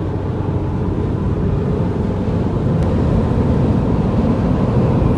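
Road noise of a car driving at speed, heard from inside: a steady low rumble of tyres and engine that grows slightly louder.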